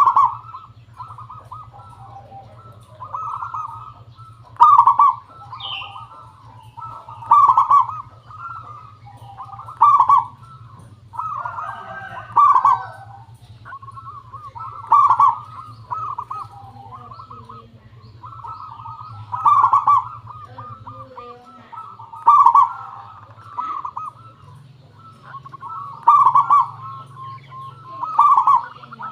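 Zebra dove (perkutut) cooing: a short phrase of quick notes rising to one loud emphatic coo, repeated about every two and a half seconds. It is a local perkutut's clear, ringing song of the kind played to lure other zebra doves into answering.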